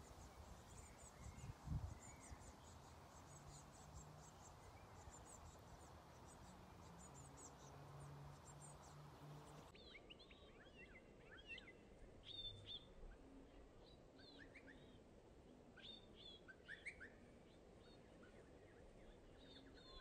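Faint chirping of small garden birds: quick series of thin, high chirps, then, after an abrupt change in the background about ten seconds in, clearer short rising chirps scattered through the rest.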